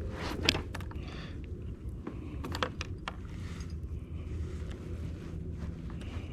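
Light clicks and taps at irregular times, one sharper near the start, over a low steady rumble: fishing tackle and the kayak being handled.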